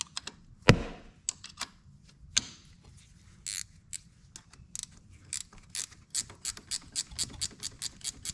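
Hand ratchet wrench clicking as a bolt is worked loose on the ATV, with a single sharp knock of metal near the start and a steady run of about four clicks a second in the second half.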